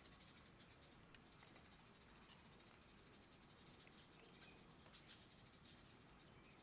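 Near silence, with a faint, rapid, high-pitched chirring.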